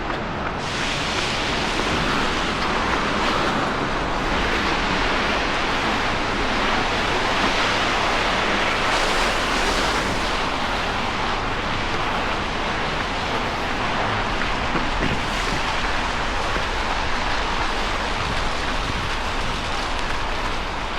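Steady rushing hiss of rain on a wet city street.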